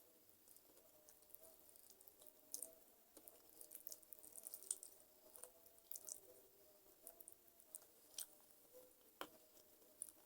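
Faint close-miked chewing of chicken feet: irregular small wet clicks and crackles as skin and cartilage are bitten and chewed.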